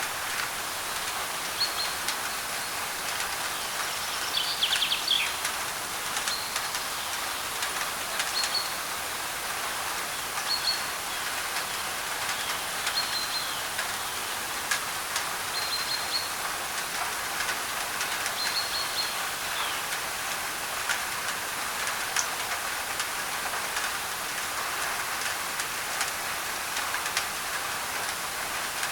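Steady rain drumming on a thin tin roof, with sharp drip ticks. A bird repeats a short high chirp every two to three seconds through the first two-thirds, with one longer call about five seconds in.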